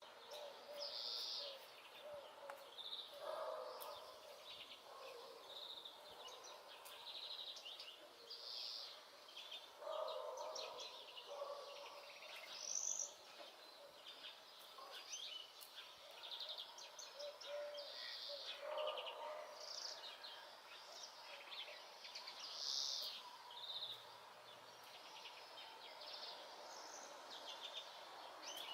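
European greenfinch song: a run of twittering notes and rapid trills repeated throughout. A lower call from another bird recurs three times underneath.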